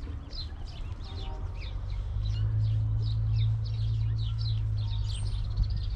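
Many small birds chirping, a steady stream of short falling chirps. A low rumble swells under them for a few seconds in the middle.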